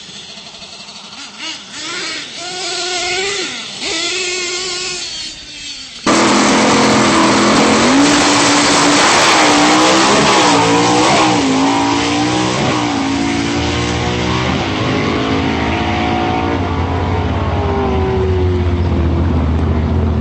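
Radio-controlled monster trucks running and revving, their motor pitch wavering up and down. About six seconds in, the sound jumps suddenly much louder and closer, with the revs rising and falling.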